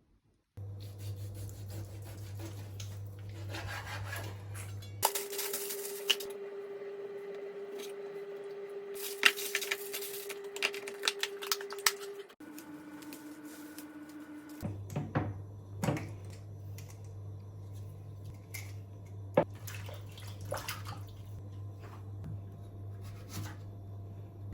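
Kitchen handling sounds: scattered clinks and clicks of dishes and utensils over a steady hum, changing abruptly several times as one short clip gives way to the next.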